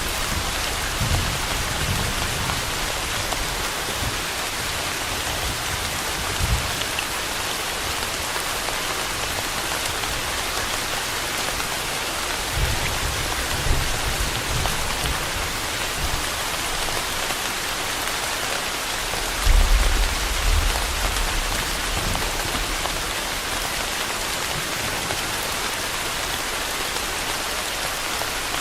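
Steady rain, a dense even hiss, with a few brief low rumbles underneath, the strongest about twenty seconds in.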